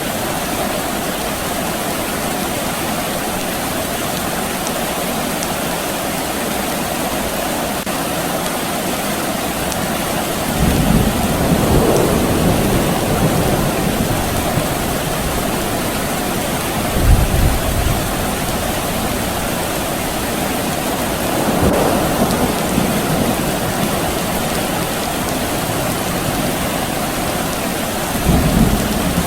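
Steady rain falling, with distant thunder rumbling several times: a long low roll starting about a third of the way in, the loudest rumble a few seconds later, and further softer rolls later on and near the end.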